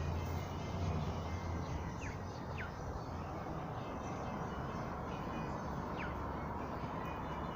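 A steady low rumble of background noise, with three short falling chirps from a bird.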